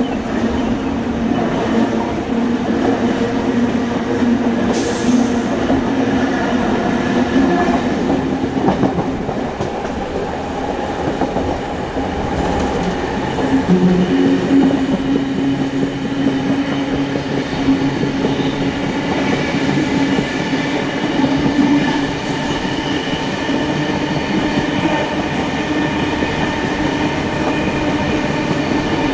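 Steam-hauled passenger train running along the line, heard from on board: a steady rumble of wheels on rail with some clickety-clack and humming tones.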